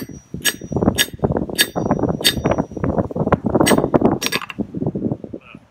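A blacksmith's hammer strikes a small heated horseshoe nail on an anvil to flatten it: about eight sharp metallic blows, roughly two a second, some leaving a brief high ring.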